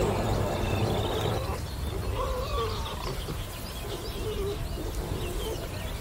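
Birds chirping, with short high calls throughout and a few lower warbling calls in the middle. A low rushing noise with a hum underneath stops about a second and a half in.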